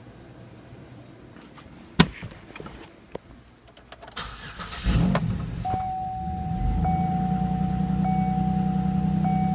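Pontiac 3400 3.4-litre V6 engine being started: a sharp click about two seconds in, a brief crank, then it catches about five seconds in and settles into a steady idle. A steady high tone sounds over the idle.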